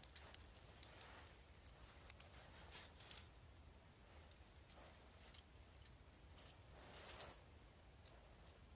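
Near silence with faint scattered clicks and a few soft rustles, like small objects being handled.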